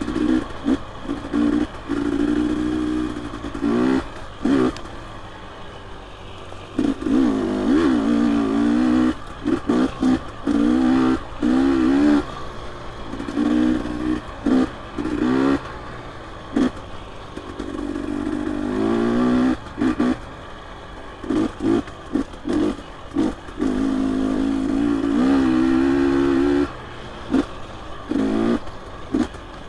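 Dirt bike engine being worked on and off the throttle in short bursts, its pitch rising and dropping back again and again, with clattering knocks from the bike over the rough trail.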